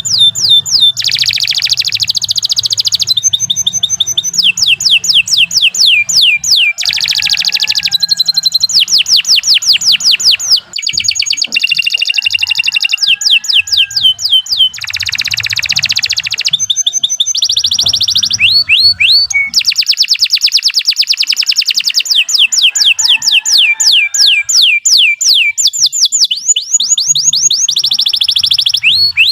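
Domestic canary singing a long unbroken song of fast trills. Each phrase is a rapid run of repeated, downward-sweeping high notes, and the bird switches to a new phrase every second or two, with a few dense, buzzy rolls between them.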